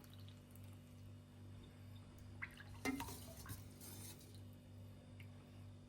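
Soup being ladled into a bowl: broth dripping and splashing, with a few light clinks of the ladle, the loudest about three seconds in, over a faint steady low hum.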